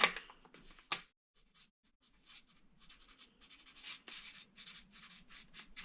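A marker pen writing on a surface: a faint run of short, quick strokes, after a single sharp click about a second in.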